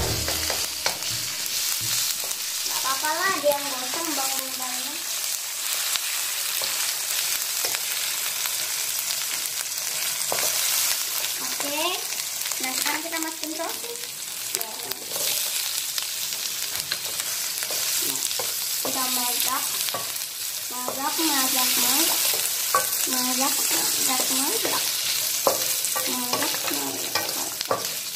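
Onion and sausage sizzling in an aluminium wok over a gas burner with a steady hiss, stirred with a wooden spatula that scrapes against the pan in short pitched strokes at intervals.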